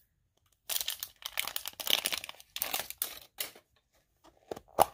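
Wrapping on a toy surprise egg crinkling and tearing as it is opened by hand, in a dense run of rustles, followed by a few sharp clicks near the end.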